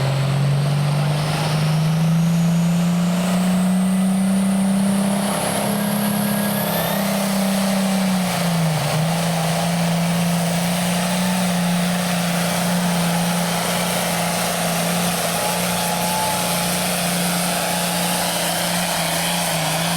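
Hot farm class pulling tractor's diesel engine running hard under load. Its pitch climbs over the first several seconds with a high whine rising above it, dips briefly about nine seconds in, then holds steady.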